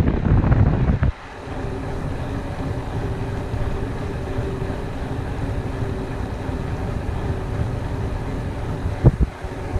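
Mountain bike riding on a dirt trail: wind buffeting the action-camera microphone over the tyres rolling on the ground. The rumble is heaviest in the first second, then settles to a steady noise, with a sharp knock about nine seconds in.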